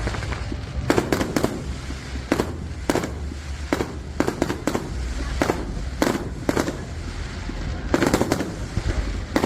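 Fireworks going off: about a dozen sharp bangs at irregular intervals, some in quick pairs, over a steady low rumble.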